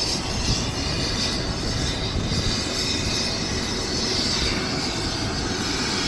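Helicopter turbine engine and rotor running steadily: a dense, even noise with a high hissing whine on top.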